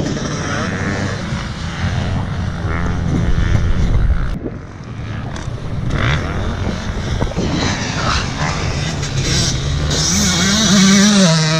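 Motocross dirt bike engine under hard riding, revving up and down as the throttle is worked. It falls off briefly about four and a half seconds in, then climbs again in a rising rev near the end.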